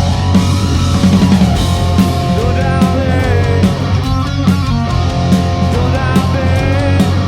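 Live rock band playing loud, grunge-style rock: electric guitar over bass and a drum kit keeping a steady beat.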